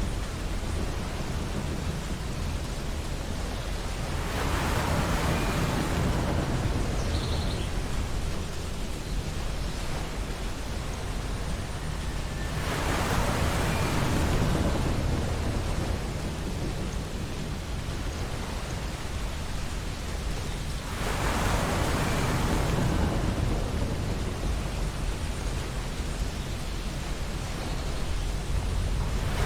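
Ocean waves breaking on a beach: three wash-ups about eight seconds apart, each swelling and fading, over a steady low rumble of surf.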